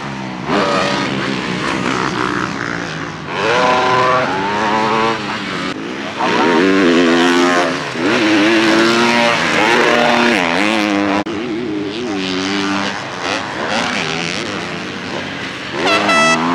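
Motocross bikes running on track, several engines revving up and dropping back again and again as riders accelerate, shift and brake through corners. A bike close by revs to a high, sharp pitch near the end.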